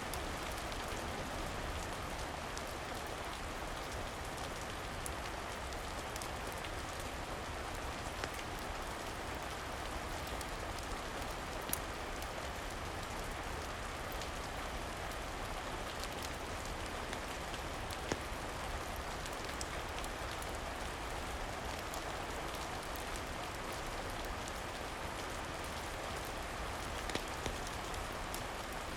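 Steady rain falling, with a few brief sharp clicks standing out now and then.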